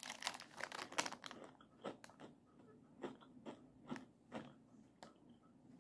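Faint biting and chewing of an edible crystal candy with a crisp sugar shell and a soft jelly inside: a quick cluster of crunches in the first second and a half, then softer chews about two a second.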